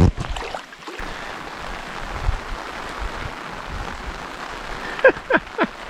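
Steady rain falling on a lake. Near the end comes a quick run of short calls, each falling sharply in pitch.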